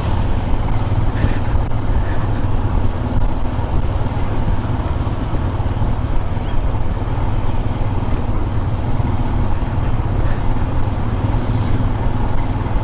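Motorcycle running steadily on the move, a continuous low rumble with road and wind noise and no marked changes in speed.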